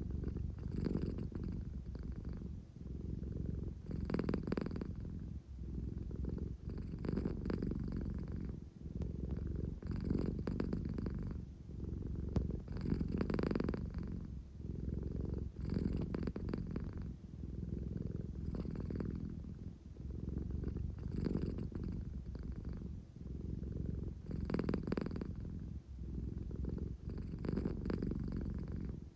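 American Shorthair cat purring continuously, the purr swelling and easing with each breath about every three seconds. It is the drowsy, contented purr of a sleepy cat wanting affection.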